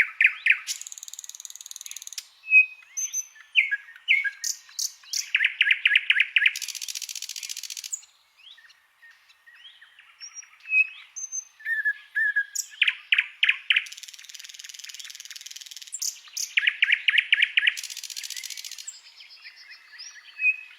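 Songbird song: fast trains of sharp repeated notes, long harsh buzzy rattles and short clear whistles, in phrases broken by a quieter gap around the middle.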